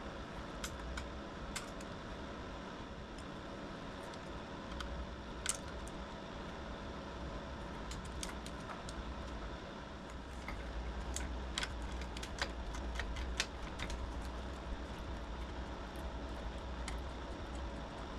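Scattered light clicks and clinks of hand tools and parts being handled during engine-bay teardown work, coming more often in the second half, over a steady low hum.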